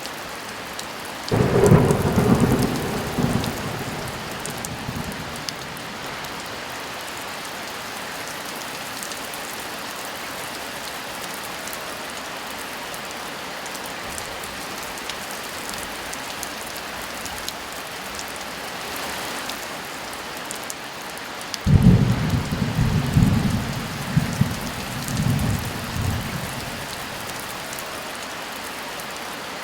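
Steady heavy rain, with two claps of thunder: one about a second in that rumbles for a few seconds, and another near the end that starts sharply and rolls on in several surges.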